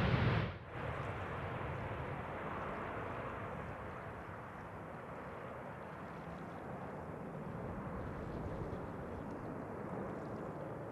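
Loud jet roar of a Boeing 777-200ER's GE90 engines on takeoff, cut off abruptly about half a second in, then a steady, much quieter jet rumble from the aircraft as it climbs away.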